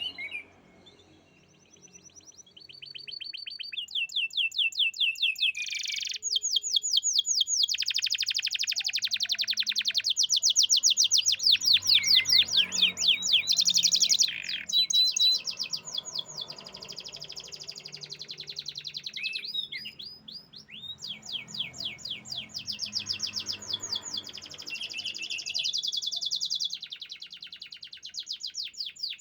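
Domestic canary singing a long song of fast trills, one rolling phrase after another with brief pauses between them, each phrase a rapid run of repeated high notes.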